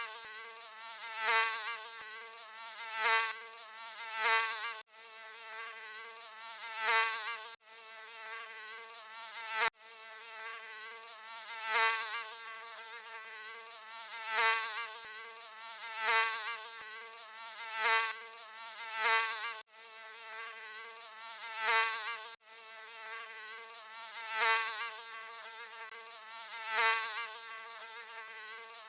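Mosquito buzzing: a steady, high-pitched whine of beating wings that swells louder and fades about every two seconds, as if flying close past the ear. There are a few brief gaps in the sound.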